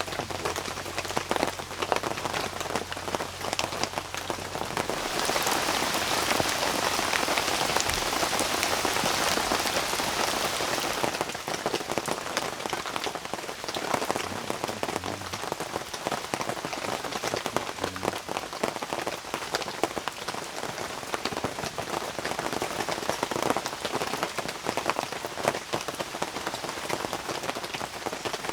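Rain falling steadily, a hiss full of small drop hits. It comes down harder for about six seconds, starting about five seconds in.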